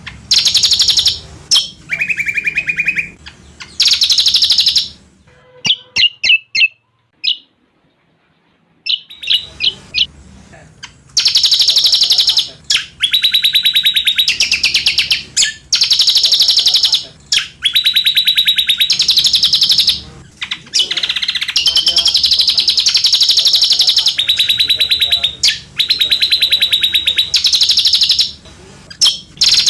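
Cucak combok songbird singing fast, dense high trills in phrases of one to three seconds with short pauses. The phrases run almost without a break through the second half.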